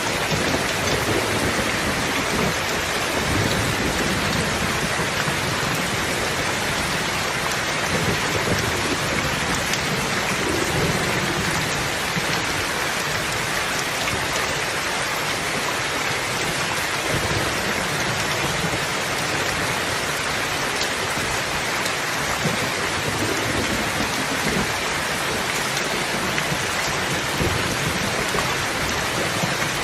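Steady rain falling hard, with low rumbles swelling and fading underneath.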